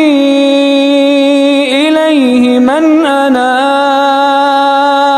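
Quran recitation: a single voice holding a long drawn-out vowel in melodic chant, with ornamented turns in pitch about two and three seconds in.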